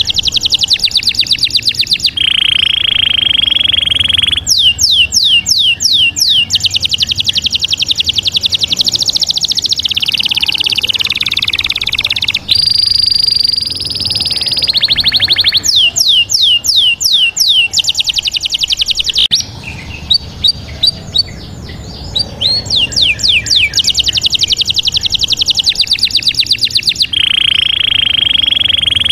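A songbird singing a long, loud, varied song: fast trills of repeated downward-sweeping notes alternating with held high whistled notes, with a short quieter broken stretch about two-thirds of the way through.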